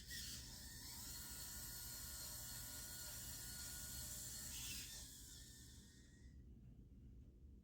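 Model classic car kit running: its drive and small single-cylinder engine mechanism of crank, cams and valves give a steady whirring with a faint whine for about five seconds, then die away.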